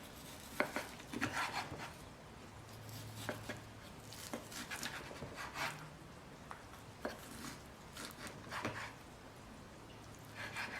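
A kitchen knife cutting raw chicken breast on a cutting board: faint, irregular knife taps against the board with soft scraping in between.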